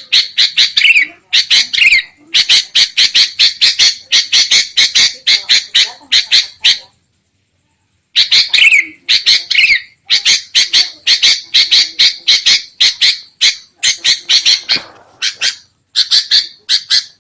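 Sooty-headed bulbuls (kutilang) in a noisy, agitated chatter of rapid harsh notes, several a second, played as a lure call for wild bulbuls. The chatter cuts to silence for about a second midway, then resumes.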